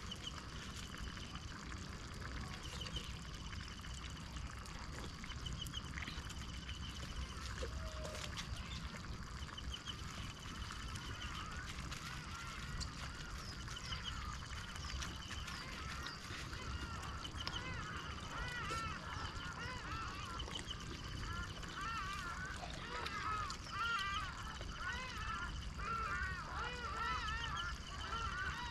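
A chorus of many short, repeated animal calls over a steady hiss of water or rain. A few trills come early on, and the calls grow denser and louder in the second half.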